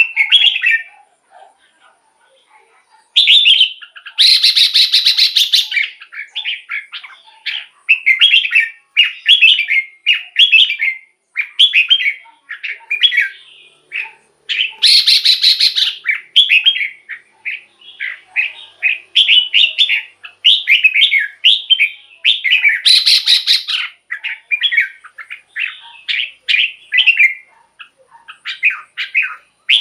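Red-whiskered bulbul singing: a steady run of short, quick whistled phrases with brief pauses between them. Three louder harsh, buzzy calls break in, about four, fifteen and twenty-three seconds in.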